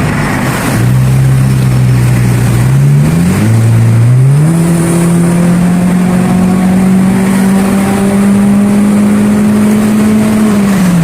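Honda Civic Reborn four-cylinder engine through an HKS aftermarket exhaust, accelerating hard. The note holds, climbs, drops sharply at an upshift about three and a half seconds in, then climbs slowly through a long pull and falls away at the very end.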